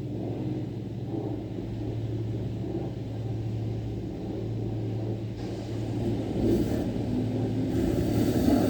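Steady low mechanical hum and rumble, growing louder over the last few seconds.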